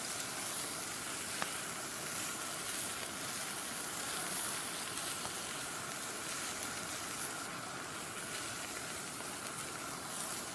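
Meat sizzling steadily on a thick iron griddle (Yokozawa teppan).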